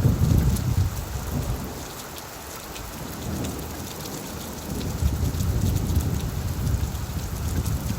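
Steady rain falling, with fine patter of drops, over a low rumble that dies down about two seconds in and builds again from about five seconds.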